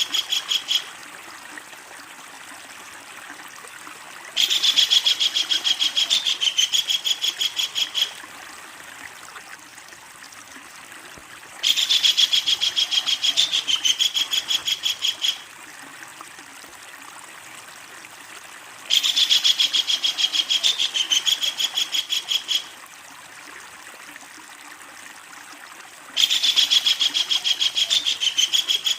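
Kingfisher giving its long, loud rattling call: bouts of about 3.5 seconds of rapidly repeated high notes, coming about every 7 seconds, with a steady background hiss between them. One bout ends just under a second in, and four more follow, the last cut off at the end.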